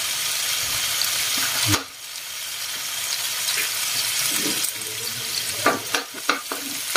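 Chopped garlic sizzling in hot oil in a wok among browning pork and chicken pieces; the hiss dips about two seconds in and builds again. From about five and a half seconds in, a spatula stirs and scrapes against the wok in several quick strokes.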